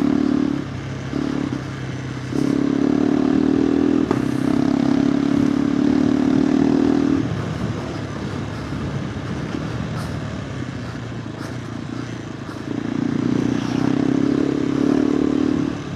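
KTM 390 Adventure R's single-cylinder engine running through a Norifumi Whoops slip-on exhaust while being ridden, the note rising under throttle, easing off about 7 s in and picking up again about 13 s in.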